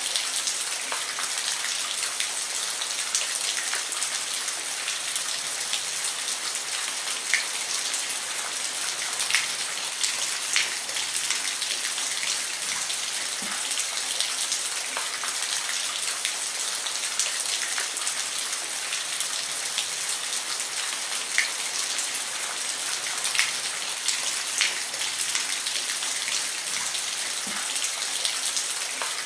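Steady rain falling on a roof: an even hiss of rain with many drops ticking close by, and now and then a louder single drop.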